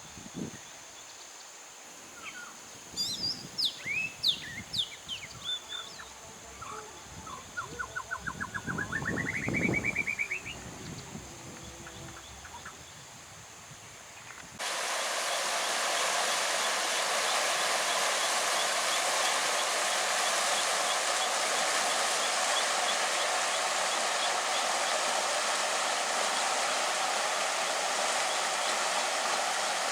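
Birds calling: scattered chirps, then a quick run of notes rising in pitch. About halfway through, the sound cuts abruptly to a steady, louder rush of running water.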